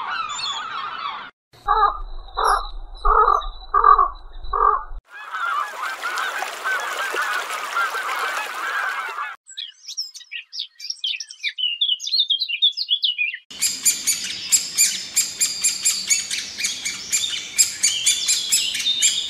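Bird calls in a run of short clips that cut abruptly: dense calling, then five evenly spaced calls about two seconds in, a thick flock chatter, high thin chirps, and fast repeated calls in the last third.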